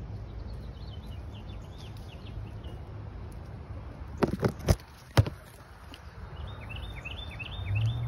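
A songbird chirping in short repeated notes during the first few seconds and again near the end, over a steady low outdoor hum. Four sharp knocks about halfway through are the loudest sounds.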